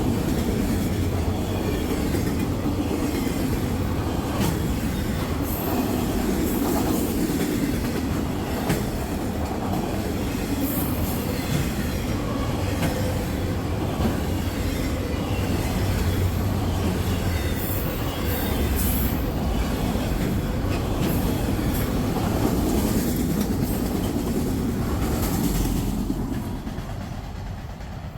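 Long freight train's cars rolling past, a steady rumble of wheels on rail with scattered clicks over the rail joints. The sound fades away near the end as the train moves off.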